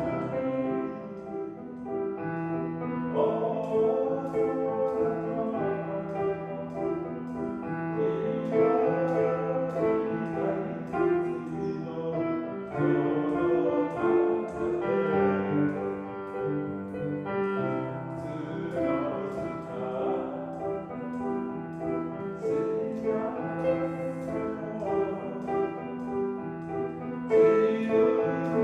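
Street piano being played: a slow piece of held chords over a bass line.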